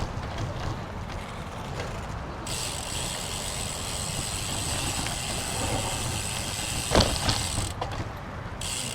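Road bicycle under way, with steady low wind and road rumble. From about two and a half seconds in, the rear hub's freewheel buzzes as the rider coasts, and a sharp knock comes about seven seconds in.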